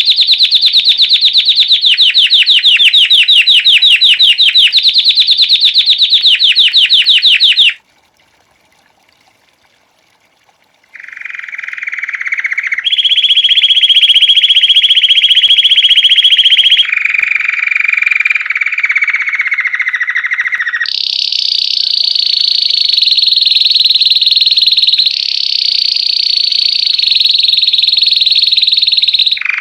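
White Belgian canary singing in the 'campainha' song style: a fast, loud trill that breaks off suddenly, a pause of about three seconds, then long rolling tours, each held for a few seconds and stepping between lower and higher pitches.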